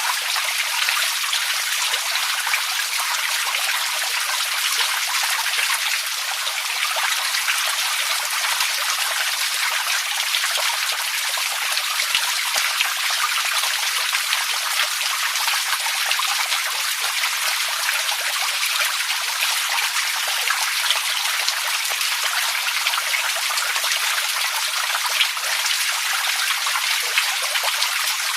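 Running water splashing in a steady, even hiss, with small droplet splashes scattered through it and no pauses.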